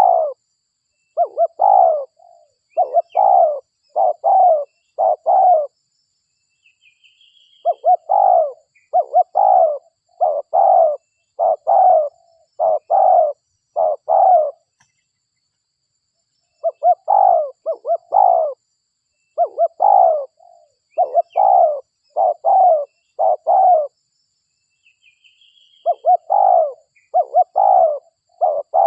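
Spotted dove (derkuku) cooing loudly, a bird-lure call: runs of five to seven coo notes with a pause of one to two seconds between runs, repeated four times. A faint, short, high, rising chirp comes in twice during the pauses.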